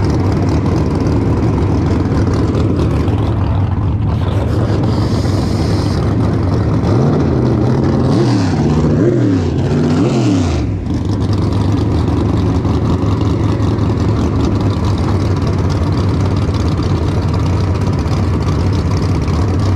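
Street-racing cars' engines idling in a loud, steady low rumble. About a third of the way in, one engine revs up and down three times in quick succession.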